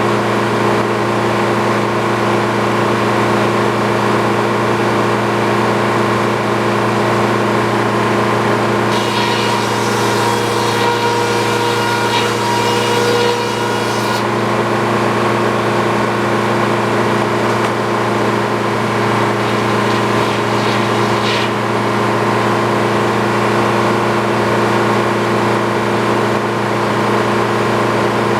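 Sawmill engine running at a steady speed, holding one even pitch. About a third of the way in, a higher hiss joins it for about five seconds.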